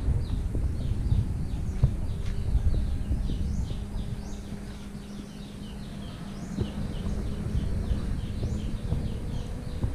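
Small birds chirping quickly and repeatedly, several short chirps a second, over a low, uneven rumble and a faint steady hum.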